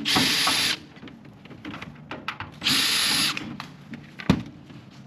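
Cordless drill-driver running in two short bursts, one at the start and one under three seconds in, each lasting under a second. A single sharp click comes near the end.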